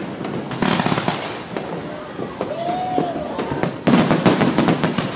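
Fireworks going off in a crowded display: bangs and crackling. There is a burst about half a second in and a dense run of crackles from about four seconds in.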